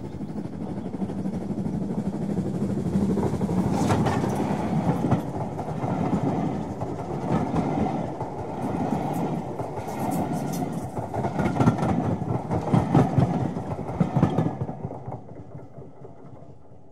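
A train running past, its wheels clacking over the rail joints, dying away near the end.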